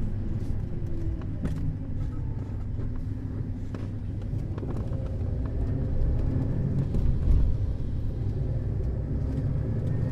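Neoplan Skyliner N 1122/3C double-decker coach driving: a steady low engine and road rumble, with scattered light clicks and rattles.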